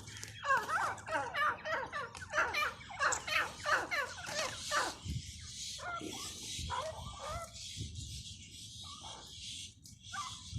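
Grey francolin calling: a quick run of short notes that sweep up and down in pitch through the first half, thinning to scattered notes later, with a steady hiss underneath in the second half.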